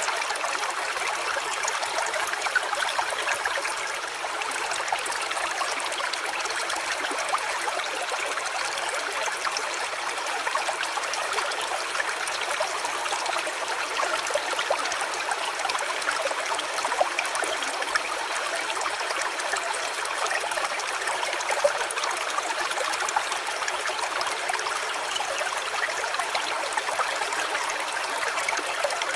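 A small stream trickling and babbling steadily over stones.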